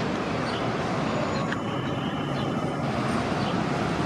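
City transit buses running at a bus terminal: a steady engine and traffic rumble. A brief high-pitched tone sounds from about a second and a half in to just under three seconds.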